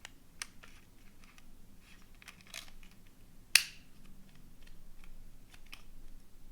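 Light clicks and small rustles from hands handling a phone and its packaging, with one sharp snap about three and a half seconds in.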